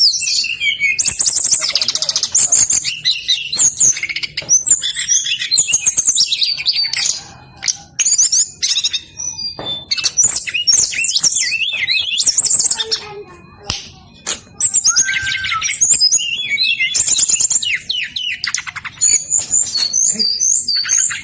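Brown-chested jungle flycatcher singing loudly and persistently: fast, varied phrases of high chattering trills and whistled notes in long runs, broken by a couple of short pauses.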